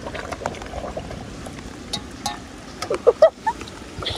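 Rain falling, a steady hiss, with a few short knocks and a brief vocal sound about three seconds in.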